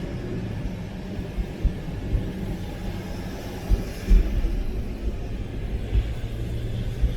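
A car driving on a wet road: a steady low rumble of engine and tyres with a light hiss above it, and a few dull thumps, the strongest about four seconds in.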